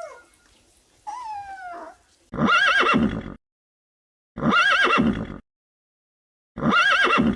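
A kitten meows once, then a horse whinnies three times, the same second-long whinny repeated about every two seconds with dead silence between.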